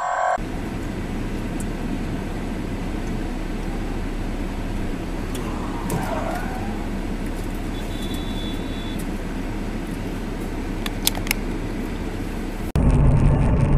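Steady engine and road noise of a car driving, as picked up by a dashcam, with a couple of faint clicks near the end. About a second before the end it jumps suddenly to louder traffic noise.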